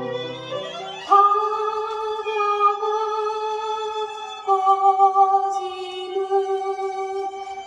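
A vinyl record of a Korean ballad plays through a hi-fi with AR-3 loudspeakers. Long held melody notes sound over the accompaniment, with a new note about a second in and another about four and a half seconds in.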